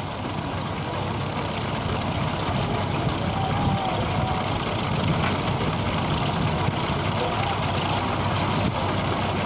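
1903 New Giant steam traction engine running on a low head of steam, a steady low rumble that pulses unevenly, with a faint voice in the background.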